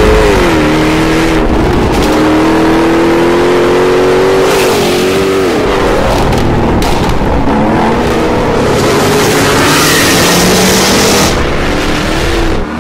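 Jaguar F-Type R's supercharged V8 running hard through its exhaust as the car is driven at speed. The engine pitch falls about half a second in, climbs steadily for several seconds, drops again about five seconds in, then rises and holds, as the car goes up and down through its gears and throttle.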